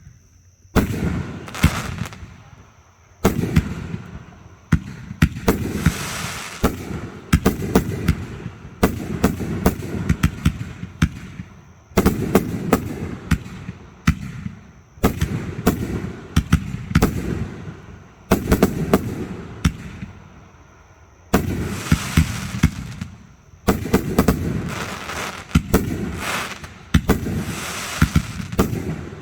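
Fireworks display: volley after volley of sharp bangs and dense crackling, each cluster starting suddenly and tailing off, every two to three seconds.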